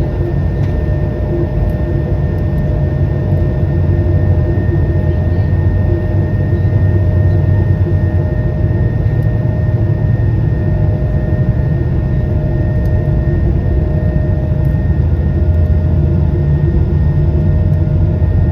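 Cabin noise of an Airbus A220-300 in flight operations, heard from a passenger seat: a steady, loud low drone from its Pratt & Whitney PW1500G geared turbofans, with a thin steady whine above it.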